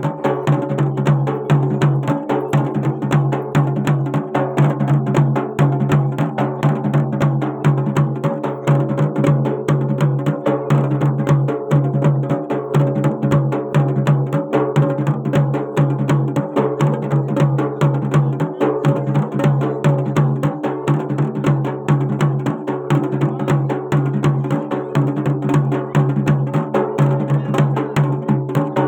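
Garhwali folk music: fast, steady drumming over a sustained low tone, with no singing.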